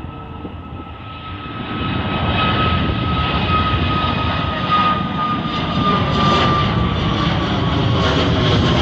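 Jet airliner's engines at takeoff power, growing louder over the first two seconds and then holding, with a steady high whine that slowly drops in pitch.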